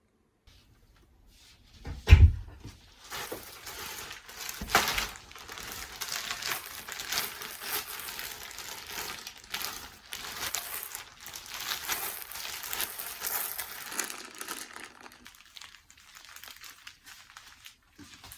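Crinkling and rustling of something being handled, like plastic packaging, lasting about thirteen seconds and fading near the end, with a single thump about two seconds in.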